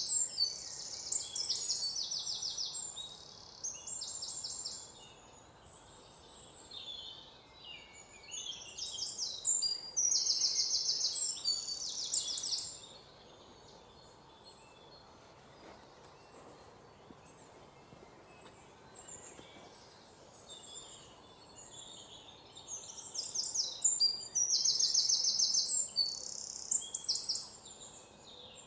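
A songbird singing high, rapid trilled phrases of a few seconds each, repeated after short pauses, with a long quiet stretch in the middle. A faint steady outdoor hiss lies underneath.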